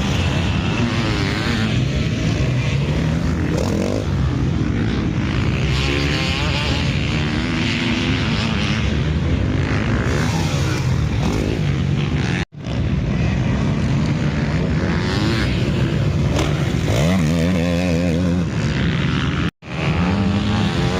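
Motocross bikes' engines revving on the track, their pitch rising and falling with the throttle. The sound cuts out briefly twice.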